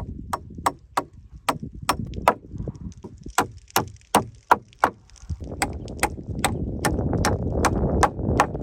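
A hammer striking wood in quick, even blows, about two to three a second, with a couple of short pauses, as when driving nails. A steady low rumble comes in about halfway through.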